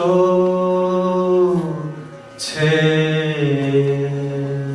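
A singer holding two long sustained notes of a Bengali song set in a raga of the Malhar family, drawing out the word 'akash'; the second note steps down in pitch partway through.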